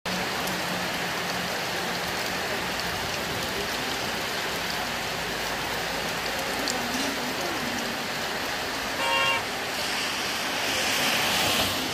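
Heavy rain falling steadily on a paved road. A vehicle horn gives one short toot about nine seconds in, and near the end a car's tyres hiss louder on the wet road as it approaches.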